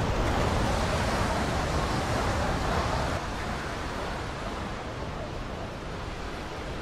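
A steady, even rushing noise that drops a little about three seconds in.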